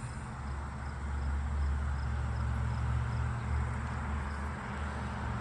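Outdoor roadside background: a steady low rumble with a faint high ticking repeating a little faster than twice a second.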